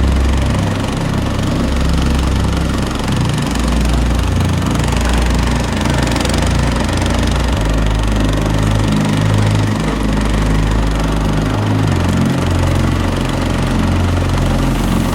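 Motoblock (walk-behind tractor) engine running while driving, its pitch stepping up and down a few times as the engine speed changes.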